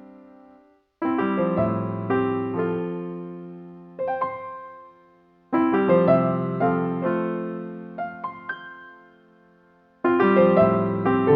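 Background piano music: phrases of gently decaying chords and notes, each starting sharply after a brief pause, at about 1, 5.5 and 10 seconds in.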